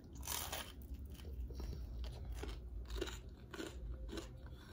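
A bite into a buttered bagel, then chewing: one louder bite just after the start, followed by soft chewing sounds about every half second.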